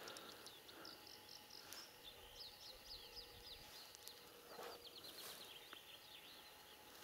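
Faint songbirds chirping in quick series of short, high notes in an otherwise near-quiet spring clearing.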